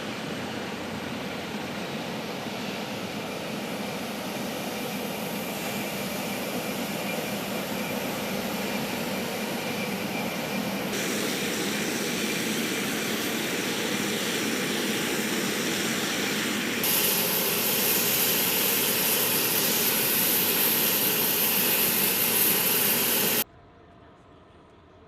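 Military aircraft turbine engines running, a steady loud noise that grows slowly louder and brighter, with abrupt shifts in tone about 11 and 17 seconds in. Near the end it cuts off suddenly, leaving a much quieter background.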